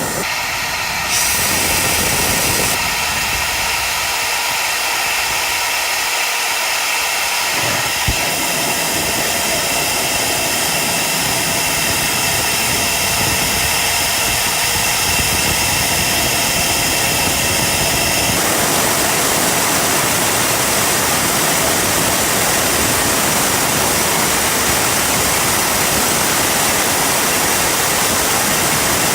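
Turbocharger jet engine running: a loud, steady rushing roar with high whining tones that step to new pitches several times.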